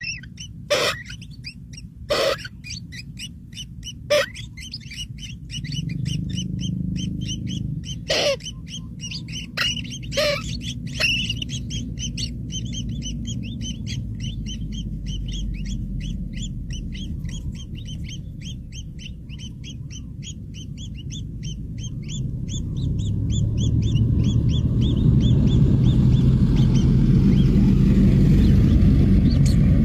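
Birds chirping: a few loud, sharp calls, then a fast, even run of high chirps, several a second. A low rumble grows louder over the last several seconds.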